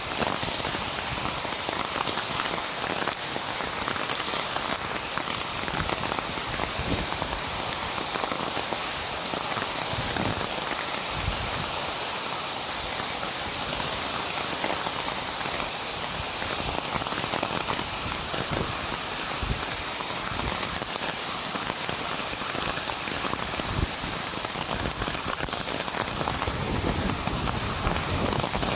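Hailstorm downpour falling steadily on hard surfaces: a dense, even hiss of countless small impacts, with scattered low thumps.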